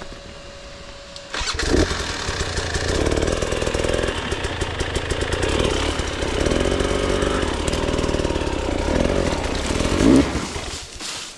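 KTM 300 two-stroke enduro motorcycle engine comes in abruptly about a second and a half in and runs loudly with rising and falling revs. It peaks shortly before the end, then falls away.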